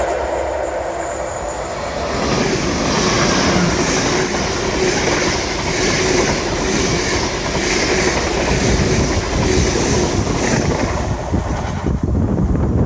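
Train running past close by, its wheels clattering over the rail joints in a regular rhythm about once a second. The clatter drops away near the end, leaving a low rumble.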